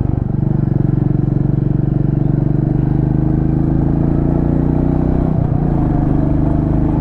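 Motorcycle engine running steadily under way, a low even engine note with a brief break about five and a half seconds in.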